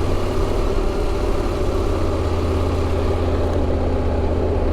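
KTM motorcycle engine running at low, steady revs, with an even low hum and fast regular firing pulses, picked up by the rider's in-helmet microphone.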